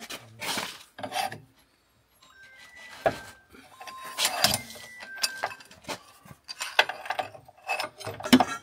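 Hand tools working on metal, probably a spanner on the leaf spring's fixings: irregular scraping, rubbing and sharp clanks, with a few brief squeaks.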